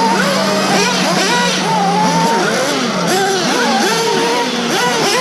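Several small nitro-engined RC off-road cars running together, their high whine rising and falling as they rev and back off. A steady low hum stops about two seconds in.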